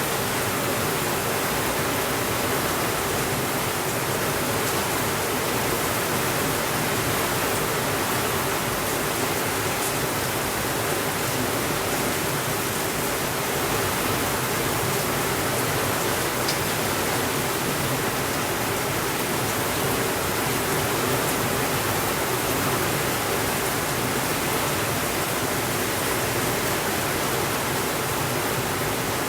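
Steady rainfall: an even, unbroken hiss with no thunder.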